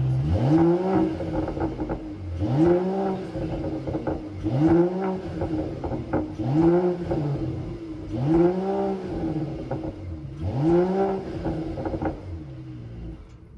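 Mercedes-AMG GT 4-door engine revved from idle in six short throttle blips about two seconds apart, the pitch rising and falling with each one. It settles back between blips and drops away near the end.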